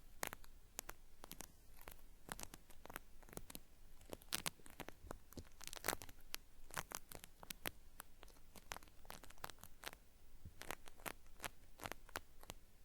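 Cotton swab rubbed inside the ear of a binaural microphone, making a dry, crisp crackling like something being peeled off, with many quick irregular crackles.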